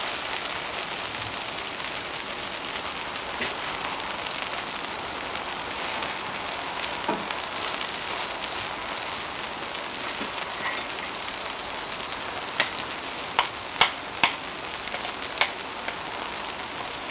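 Grated old-pumpkin pancakes sizzling steadily in oil on a cauldron-lid griddle (sotttukkeong), with a handful of sharp ticks a little past the middle.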